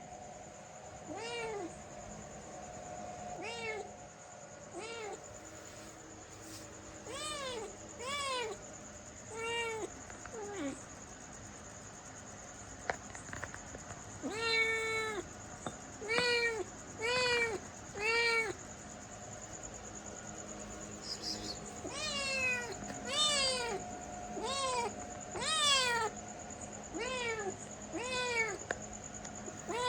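A domestic cat meowing again and again, about twenty short meows that rise and fall in pitch, some in quick runs of two or three. A faint steady whine runs underneath.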